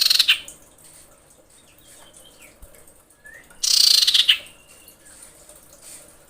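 Female common iora calling: a harsh rattling call trails off at the start and another comes a little under four seconds in. Faint short whistled notes sound between them.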